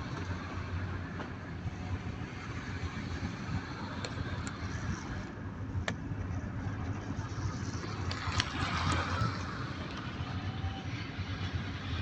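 Bus running, with a steady low engine drone and road noise and a few light clicks and rattles.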